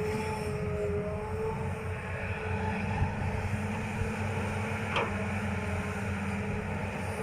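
Hitachi ZX200-5G hydraulic excavator's diesel engine running steadily under working load, with a steady whine in the first second and one sharp click about five seconds in.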